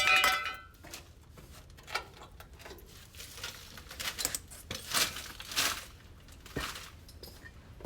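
A hard metal clink that rings for about a second, like a tool set down on metal, followed by scattered scraping and rustling handling noises.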